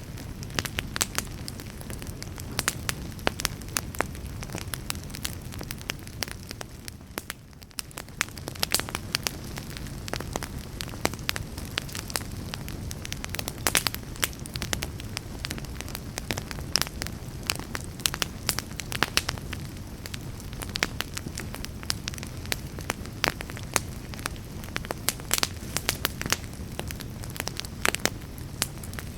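Wood fire in a fireplace burning steadily, with a low rumble of flames and frequent sharp crackles and pops of burning logs; the fire dips briefly quieter about seven seconds in.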